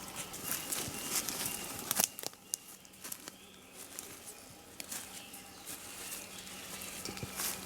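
Footsteps through forest undergrowth: irregular crackling of twigs and rustling of leaves and brush, with a louder crack about two seconds in. Faint birdsong chirps in the background.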